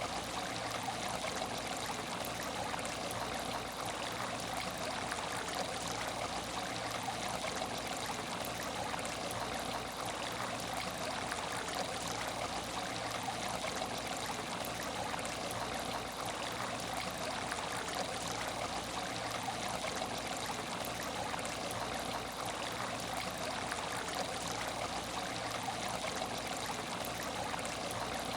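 Steady trickling of water in an aquarium tank, with a faint low hum underneath.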